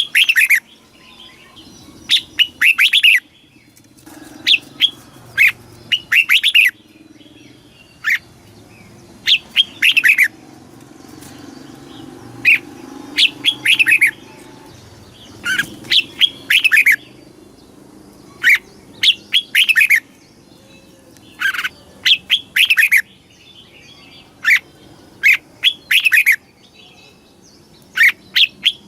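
Red-whiskered bulbul singing: short phrases of a few quick whistled notes, repeated every second or two with brief pauses between them.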